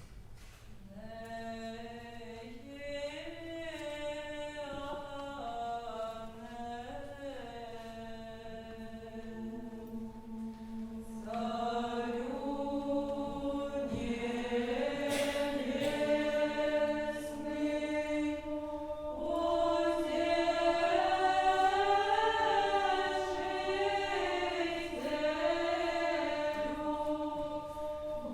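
Unaccompanied vocal ensemble singing Old Russian chant: a low note held steady beneath a slow melody that moves above it. The voices come in about a second in, grow fuller around the middle, and are loudest in the last third.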